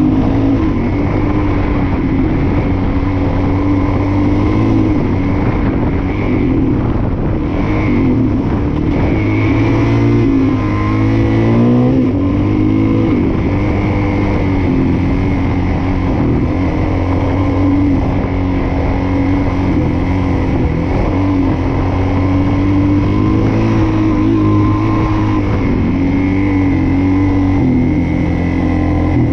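Suzuki DR-Z400S dual-sport motorcycle's single-cylinder four-stroke engine running while the bike is ridden off-road. The engine note holds fairly steady, with a quick rise and fall in pitch about ten seconds in.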